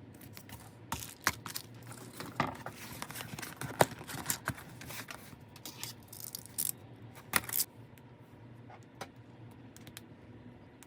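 Clicks, taps and crinkling of packaging and small items being handled during an unboxing, busy for the first seven or so seconds, then only a few faint clicks.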